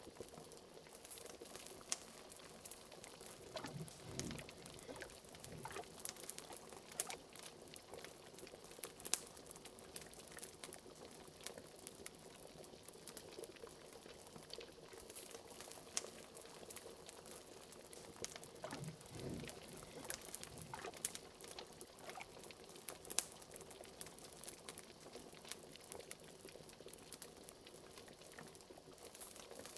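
Liquid bubbling steadily in a cauldron, with a couple of larger low bubbles plopping, about four seconds in and again past the middle, over many small crackles of a wood fire.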